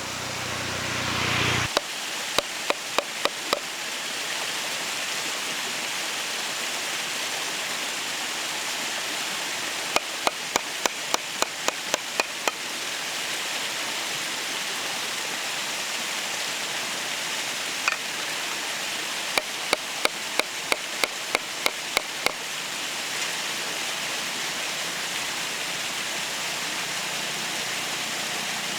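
Three runs of sharp chopping strokes, about three a second, six to ten strokes in each run. They sound over a steady hiss.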